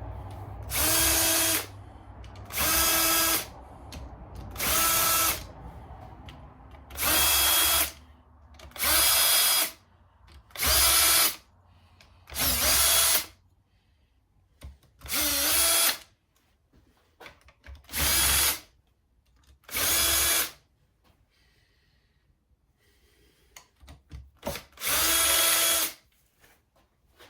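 Power drill/driver spinning out engine case bolts in short runs of about a second each, about eleven times, with a steady whine that dips briefly in pitch on a few runs as it takes load. The bolts hold the clutch-side outer case of a Suzuki LTR 450 engine.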